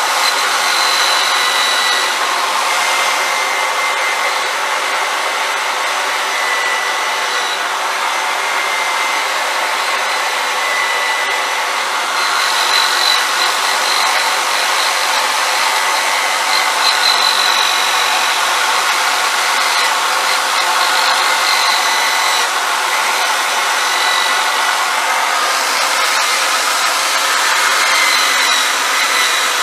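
Electric drill running steadily, used to clean an old metal wheel; its motor whine wavers slightly in pitch as it works.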